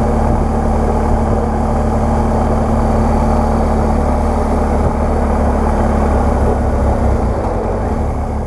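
BMW R1200GS Adventure's boxer-twin engine running at a steady riding speed, heavily overlaid by wind rush on a helmet-mounted microphone. The sound fades out near the end.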